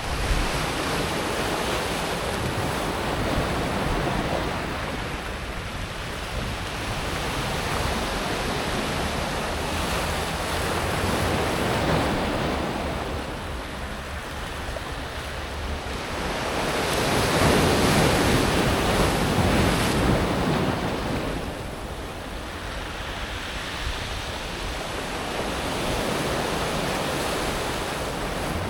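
Small sea waves breaking on a pebble beach and washing back over the stones, rising and falling in slow swells; the loudest wave comes about two thirds of the way through.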